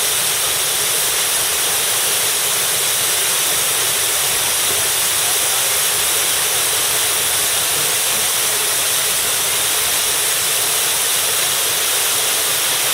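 Waterfall pouring steadily: a loud, even rush of falling water with a hissing edge.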